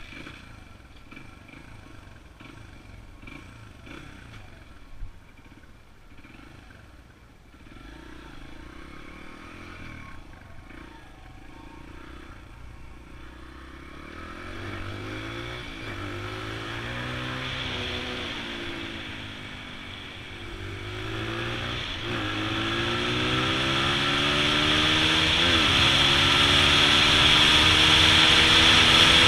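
Honda XR100 dirt bike's small single-cylinder four-stroke engine running quietly at first, then from about halfway revving up and down, rising and falling in pitch and getting louder toward the end as the bike gets under way.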